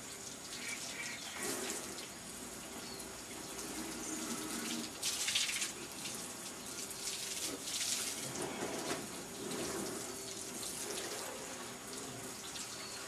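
Water from a garden hose running and splashing onto a car's bodywork as it is rinsed, with brief louder gushes about five and eight seconds in.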